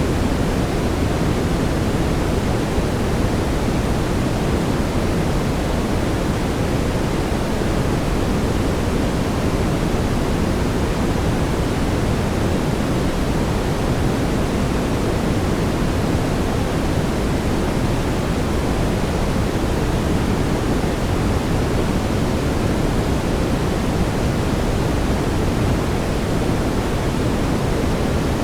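Steady brown noise: a constant, even rushing hiss weighted toward the low end, with no change in level.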